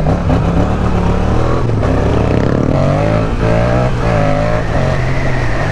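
Yamaha MT-07's 689 cc parallel-twin through an aftermarket Mivv exhaust, accelerating under load. Its pitch climbs and drops back a few times as the bike shifts up through the gears.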